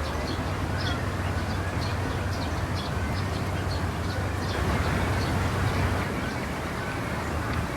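Outdoor city-park ambience: a steady low rumble of distant traffic with a hum underneath, and a bird giving many short, high chirps over the first five seconds or so.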